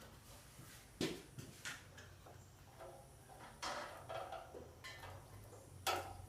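Scattered metallic knocks and clatters from hands-on work on the tractor being split, the sharpest about a second in and just before the end, with a short rattling run a little past the middle, over a faint steady low hum.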